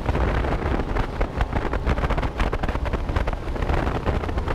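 Strong wind buffeting the microphone over a boat's low running rumble, with many sharp knocks throughout.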